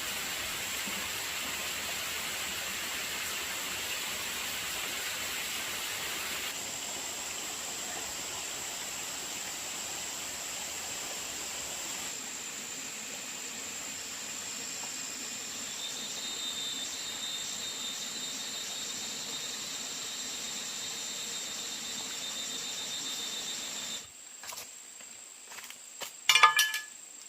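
Outdoor ambience with a steady high-pitched insect drone over a hiss. Near the end come a few sharp knocks and one louder clatter.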